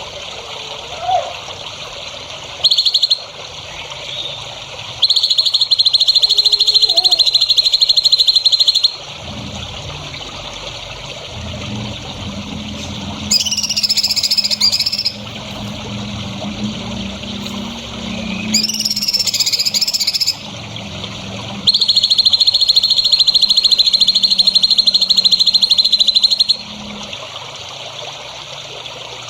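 Songbird calls: two long, rapid, high trills, with two short bursts of sweeping whistled song between them, over a low steady drone in the middle.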